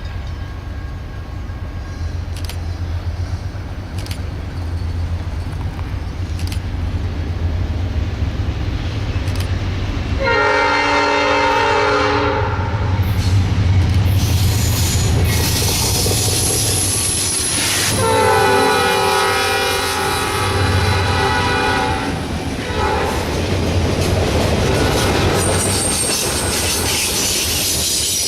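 Norfolk Southern diesel locomotives approaching, their engines rumbling louder, with the air horn sounded in two long chord blasts, about ten seconds in and again at about eighteen seconds. Wheel and rail noise rises near the end as the train draws up.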